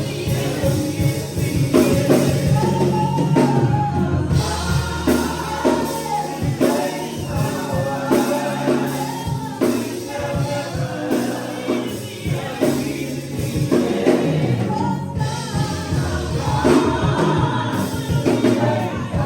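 Gospel music: a church choir singing over a band with drum kit, bass and tambourine.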